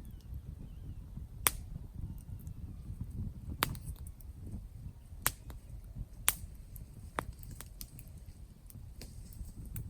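Campfire crackling, with several sharp, loud pops and many smaller ticks over a steady low rumble.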